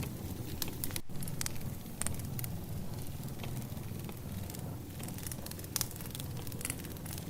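Wood fire crackling: irregular sharp pops and snaps over a steady low rumble of burning logs, with a momentary dropout about a second in.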